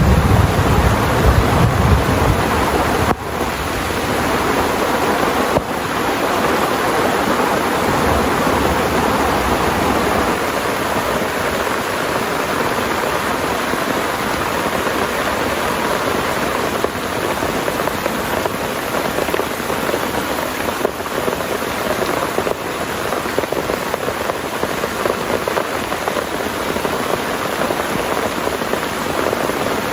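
Heavy rain pouring steadily, with a low rumble of thunder dying away in the first few seconds.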